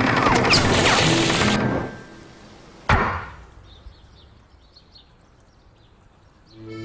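Film score and sound effects fade out, followed about three seconds in by a single sharp crash that rings briefly. Then comes a quiet stretch with faint, scattered high ticks before music starts again near the end.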